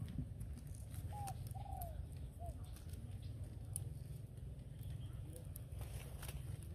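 A bird calls three short notes, a little over a second in, over a steady low rumble.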